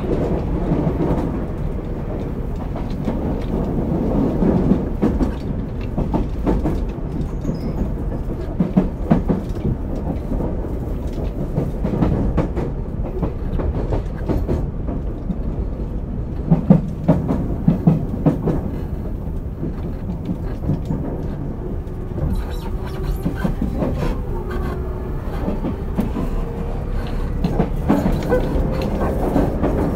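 Running sound of a Tobu 30000 series electric train, heard from inside the motor car. There is a steady low rumble of wheels on rail with clicks over rail joints, and a faint rising motor whine through the last several seconds as the train picks up speed.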